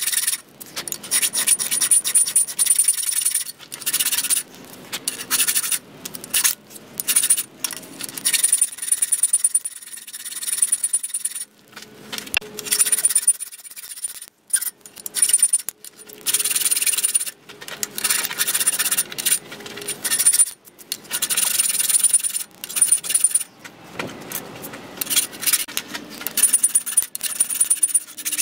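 Hand file rasping across an annealed spring-steel knife blank in repeated scraping strokes with short pauses between them. Many strokes carry a thin, high ringing edge.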